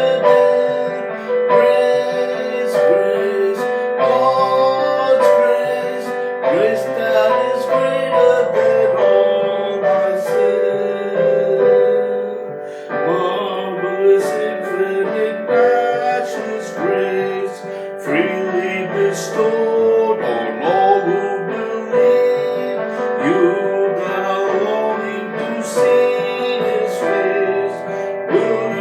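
Piano music: a slow, steady stream of chords and melody, as in a hymn played on piano.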